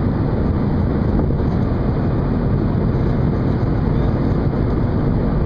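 Steady, loud low rumble of a ship at sea, with wind buffeting the microphone.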